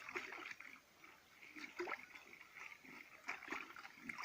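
A car floor mat being washed in flowing water: irregular splashing and trickling.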